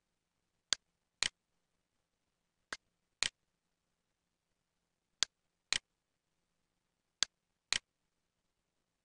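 Sharp clicks in pairs about half a second apart, a new pair every two seconds, with faint room hum between them.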